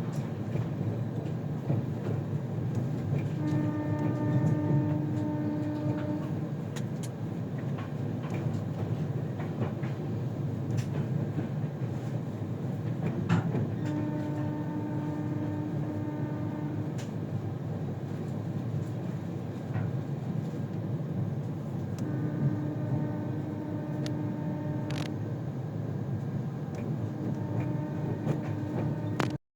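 Train running on the rails with a steady rumble and occasional clicks, while a train horn sounds four times, each blast a steady held tone of about three seconds.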